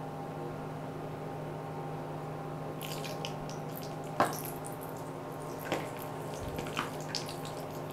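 Whole green peppers frying in hot oil in a pan on an induction hob, over the hob's steady hum. About three seconds in a sizzle starts, with a few sharp crackling pops from water left on the peppers spitting in the hot oil.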